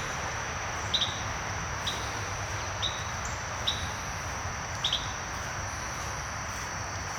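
Insects trilling steadily in a high thin tone, with a short chirp repeated about once a second over a low, even outdoor background.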